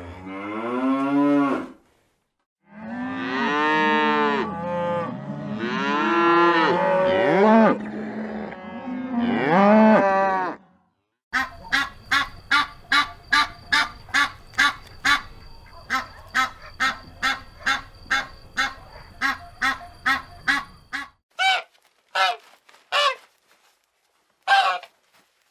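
Cows mooing in several long calls that rise and fall in pitch, followed by geese honking in a fast run of short, repeated honks, about two or three a second, then a few separate honks near the end.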